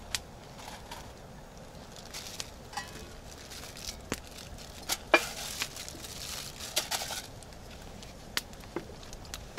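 Campfire crackling with scattered sharp pops, the loudest about five seconds in, and a short stretch of rustling in the middle.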